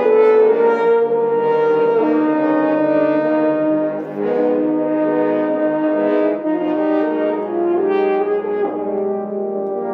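Brass ensemble playing slow, sustained chords, with several notes held together and changing every second or so. It softens a little near the end.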